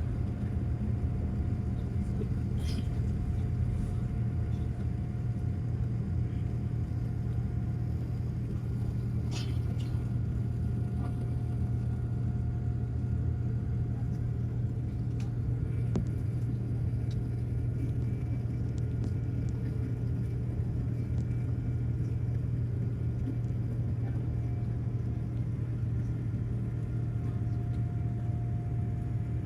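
Cabin noise inside a Boeing 787-9 during takeoff: a steady deep rumble of the engines and rushing air, with a faint steady whine on top.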